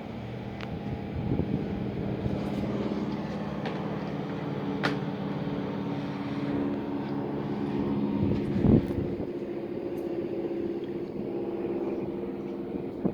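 A large engine running steadily with a low, even hum, with a few light clicks and a louder knock about nine seconds in.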